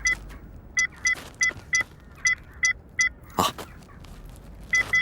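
A series of short electronic beeps, about two a second, with a brief whoosh about three and a half seconds in; near the end a long steady beep begins.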